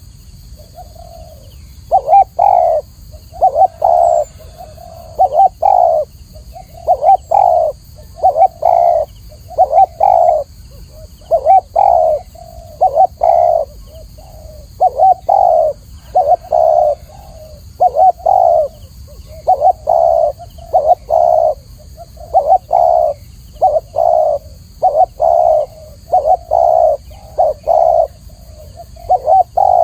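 Spotted dove cooing: short phrases of two or three low coos, repeated about every one and a half to two seconds.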